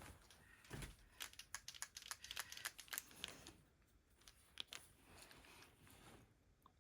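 Faint rustling and a quick run of light clicks and ticks as craft supplies are handled, thickest in the first half, then a few scattered clicks and a soft rustle.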